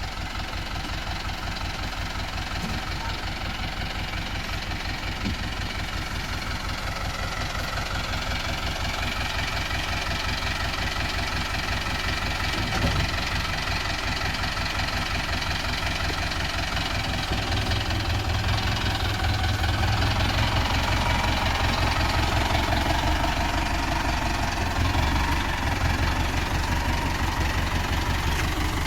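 Mahindra tractor's diesel engine running steadily with an even, rapid firing beat. It grows louder, with more low rumble, about two thirds of the way through.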